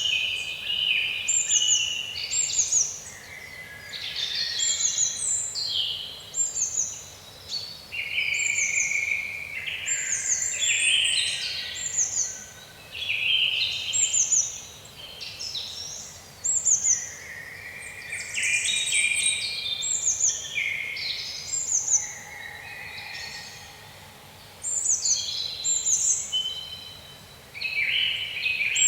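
Several small birds chirping and singing in quick, overlapping phrases, many of them short downward-sweeping whistles, with brief lulls between bouts.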